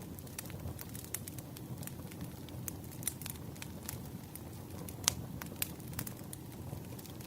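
Wood fire crackling, with irregular sharp pops and snaps, the loudest about five seconds in, over a steady low rumble.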